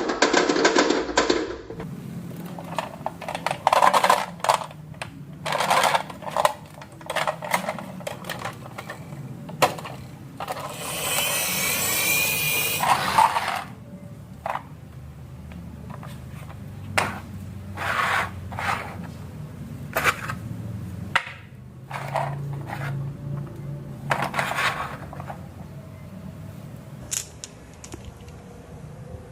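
Marbles rolling down a marble run track, with a low rolling rumble and many sharp clicks and clacks as they hit the track and each other. A louder rushing stretch lasts about three seconds near the middle. A short bit of music ends about two seconds in.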